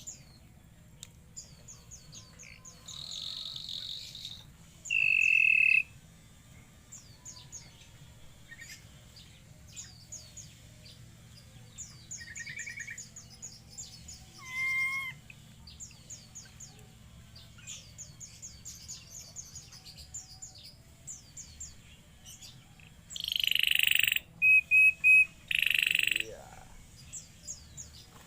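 Ashy drongos calling: a steady scatter of short, high chirps with several louder calls in between, the loudest cluster near the end with a quick run of repeated notes.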